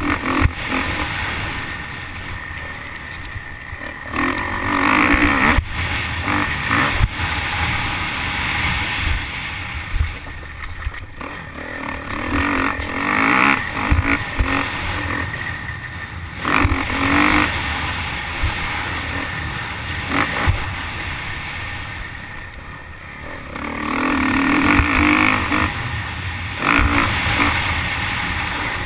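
Motocross bike engine revving up and easing off again several times as it is ridden around a dirt track, heard through a helmet-mounted camera with wind rushing over it and scattered sharp knocks.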